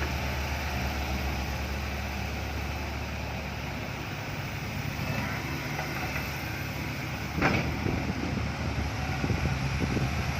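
Diesel engine of a loaded six-wheel dump truck running steadily, with a brief louder burst about seven seconds in.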